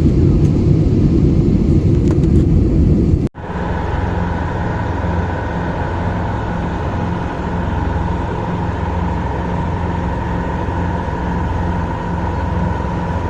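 Steady low rumble of a ship at sea. About three seconds in it cuts abruptly to a steadier machine hum with a faint high tone and a low note pulsing about twice a second.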